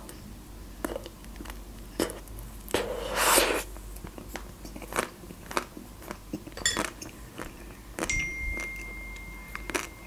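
Close-miked biting and chewing of a chocolate-coated Magnum ice cream bar: scattered wet mouth clicks and smacks, with a louder crunch about three seconds in.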